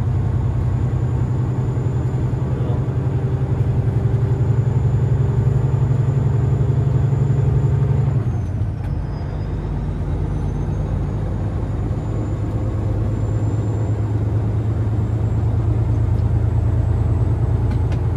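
Peterbilt semi truck's diesel engine running under way, a steady low rumble. About eight seconds in the engine note drops off briefly, with a faint high whine falling and then rising again, before it builds back up.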